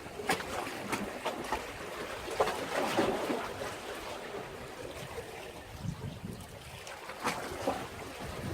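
Sea waves lapping and sloshing against a breakwater, with a steady wash and irregular small splashes, a few of them louder.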